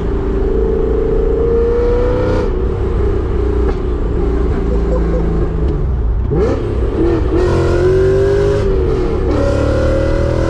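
Supercharged 4.9-litre S62 V8 with a straight-piped exhaust accelerating, its pitch rising in pulls broken by gear shifts of the six-speed manual about two and a half, six and a half and nine seconds in.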